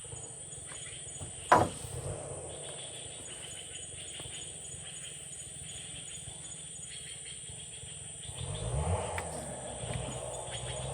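A low, steady background rumble with one sharp knock about a second and a half in. Near the end an engine starts up and its pitch rises and wavers.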